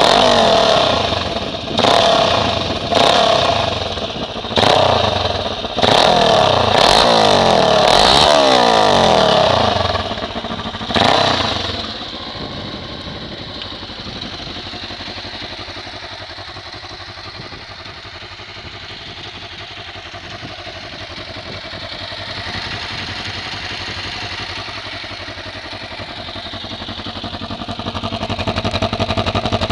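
Kawasaki KLE 500 parallel-twin engine with an aftermarket Laser Pro Duro exhaust, blipped sharply about seven times over the first twelve seconds, each rev falling back quickly. It then runs steadily at low revs, growing quieter and then louder again near the end.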